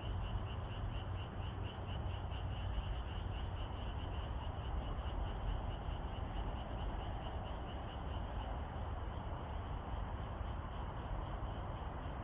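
A frog chorus calling in a steady pulsing trill, about four pulses a second, over a constant low rumble.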